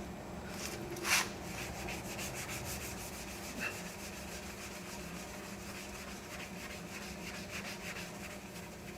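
Hand rubbing of Scuff-It scuffing paste on a painted fiberglass panel: steady back-and-forth scrubbing strokes, with one brief louder stroke about a second in. The paste is being tried to cut the overspray and roughness from the blend area.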